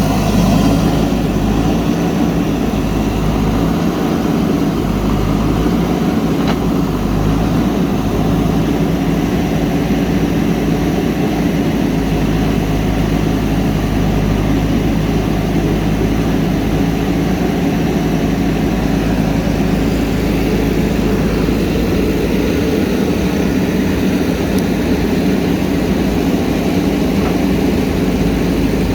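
JCB backhoe loader's diesel engine running steadily, a little louder in the first second.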